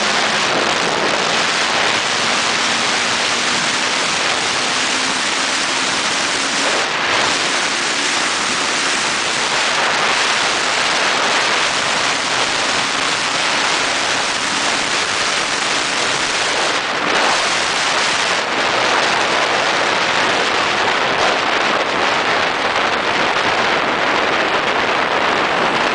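Steady wind rush on a helmet-mounted camera microphone while riding a motorcycle, with the faint hum of the Kawasaki Ninja 250's parallel-twin engine underneath in the first half.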